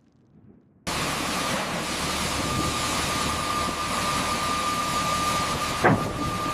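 Turbine engine running: a steady loud roar with a high whine, cutting in abruptly about a second in. There is a single sharp knock near the end.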